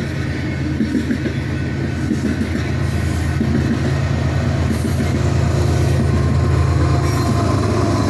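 A train rumbling past: a steady low hum with rattling running noise, getting a little louder about two-thirds of the way through.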